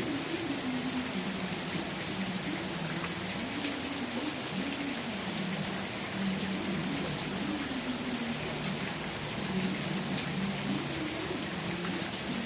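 Steady rain falling, with the patter of drops on a surface. A low wavering hum runs underneath.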